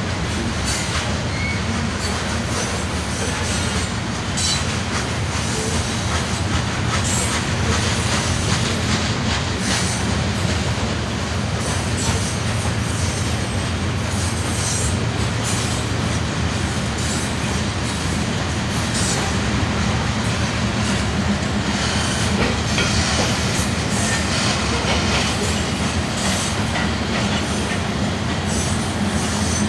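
Covered hopper cars of a Kansas City Southern freight train rolling past: a steady wheel-on-rail rumble with frequent clicks and knocks as the wheels pass over the rail joints.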